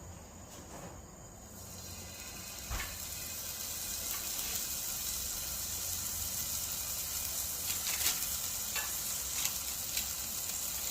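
Hanwoo sirloin steak sizzling on a hot portable gas grill for the final sear after reverse searing. The sizzle builds up about a second and a half in, with a sharp click near the three-second mark and scattered crackling spits after.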